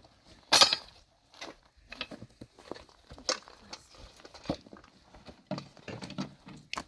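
Scattered clicks and knocks of things being handled, with one louder scraping burst about half a second in.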